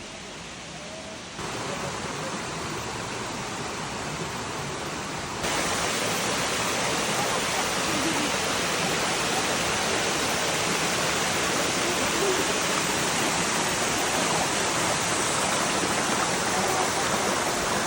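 Rushing water of a curtain waterfall, a steady even hiss that steps up louder twice, about a second and a half in and again about five and a half seconds in.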